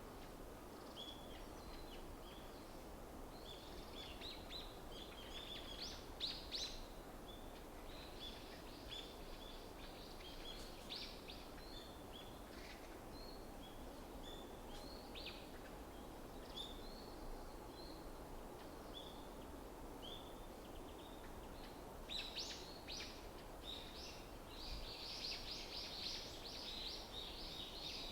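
Small forest birds giving short, high chirps again and again, thickening into a dense run of calls near the end, over a steady low background hum.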